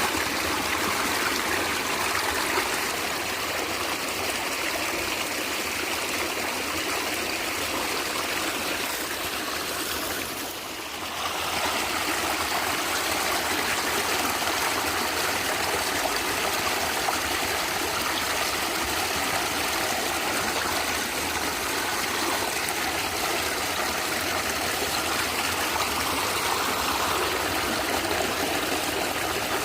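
Natural stream water gurgling steadily, dipping briefly in level about ten seconds in before running on as before.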